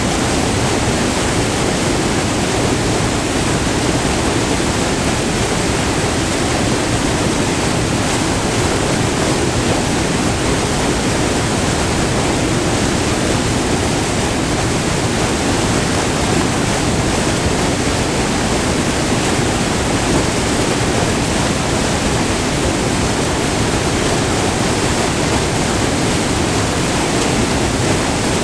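Waterfall: white water pouring steadily over the rock tiers of a small multi-tiered river falls, a loud, even rush with no breaks.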